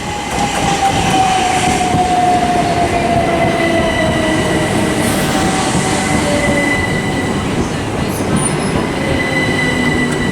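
Southern Class 377 Electrostar electric multiple unit arriving and slowing at the platform, its traction motor whine falling steadily in pitch as it brakes. A steady high squeal and a loud rumble of wheels on rail sound with it.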